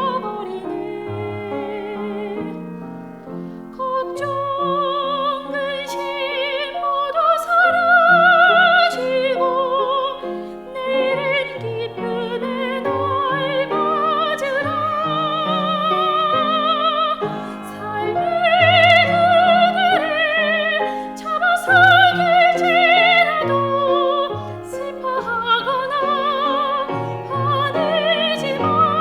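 Classical, operatic-style singing with strong vibrato on long held notes, over a piano accompaniment.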